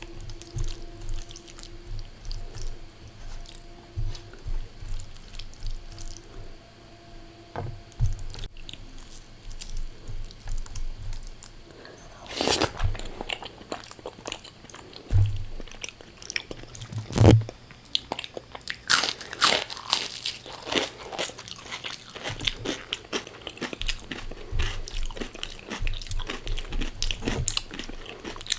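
A person eating close to the microphone: soft, steady chewing, then from about halfway through loud, sharp crunches of crisp fried food, coming thick and fast near the end.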